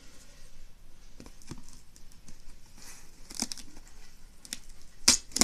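Hands working open a package of airgun pellets: scattered clicks and faint crinkling and tearing, with two sharp, loud clicks near the end.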